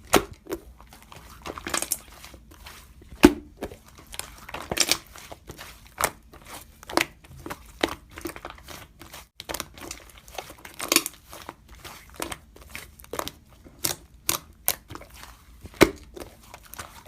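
Slime being squished and worked by hand, giving irregular sticky clicks and crackling pops, a few each second.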